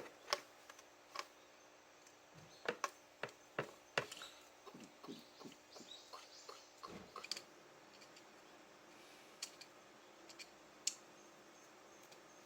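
Scattered light clicks and knocks of hands and tools handling parts while working at a motorcycle's rubber oil-tank drain hose, irregular and sparse over quiet room tone.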